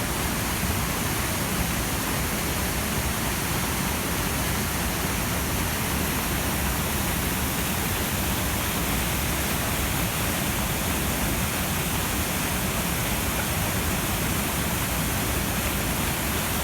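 The Saut du Doubs waterfall on the Doubs river: a steady, unbroken rush of a large volume of falling water.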